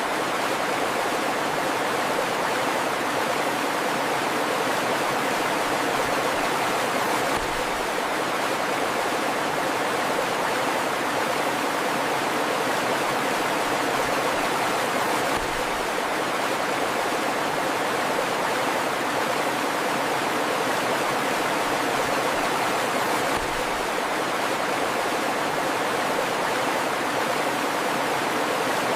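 A river flowing steadily, an even, unbroken rush of water.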